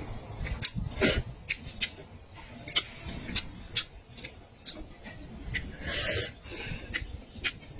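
Close-up eating sounds: a person chewing meat in big mouthfuls, with irregular wet smacks and clicks and a longer slurping smack about six seconds in.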